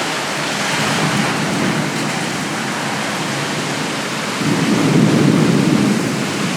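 Heavy rain pouring steadily, with low thunder rumbling under it and swelling louder about four and a half seconds in.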